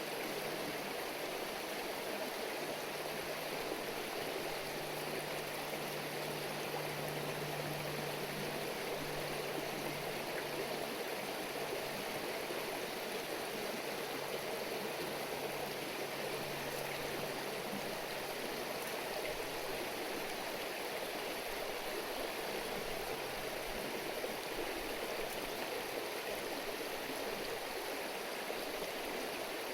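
A river stream babbling steadily, an even rush of running water.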